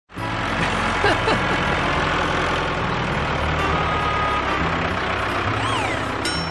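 Cartoon vehicle engine sound effect: a steady, loud engine rumble with a few short whistling pitch sweeps over it, fading near the end.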